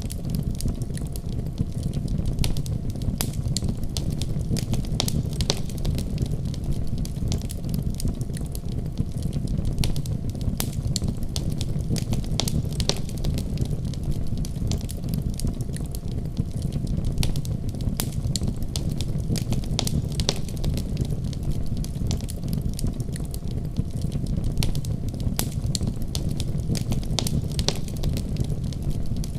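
Wood fire burning in a fireplace: a steady low rumble of flames with frequent scattered crackles and pops.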